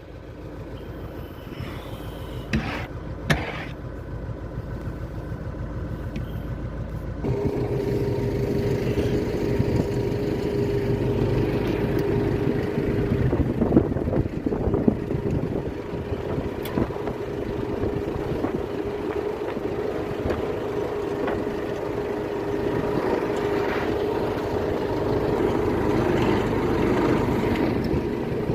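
A motor vehicle's engine running steadily. About seven seconds in it gets louder, with a steady hum, and holds there. Two sharp clicks come early on.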